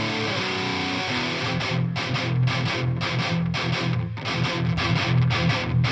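Heavily distorted electric guitars playing in a rock mix: held chords for the first second or so, then tight palm-muted chugs with short stops between them. The palm mutes carry light compression on their low-mid mud frequencies.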